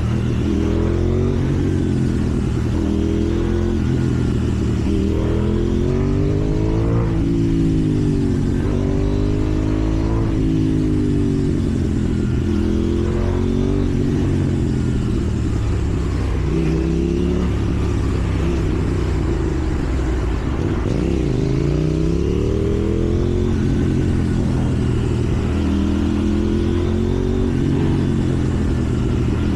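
KTM 790 Duke's parallel-twin engine running on the move, its pitch climbing and falling over and over as the bike accelerates, shifts and backs off in traffic.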